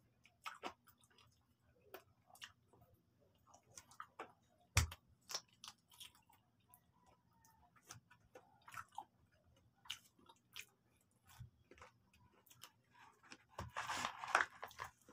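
Close-up chewing and crunching of crispy fried chicken: scattered crisp crunches and clicks, one louder crunch about five seconds in, and a denser run of crunching near the end.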